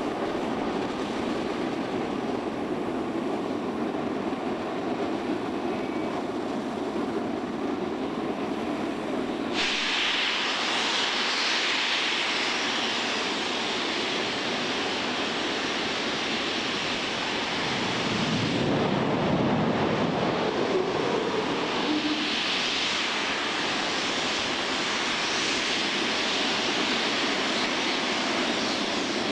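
J-2X liquid-hydrogen/liquid-oxygen rocket engine firing on a test stand: a loud, continuous rush of noise. The sound turns abruptly brighter and hissier about ten seconds in, then deeper for a few seconds past the halfway point.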